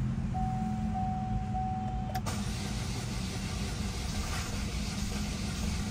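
Starter motor cranking the Chevrolet Cruze's cold, freshly rebuilt engine, which turns over but does not fire. A steady beep of about two seconds comes first; the cranking starts about two seconds in.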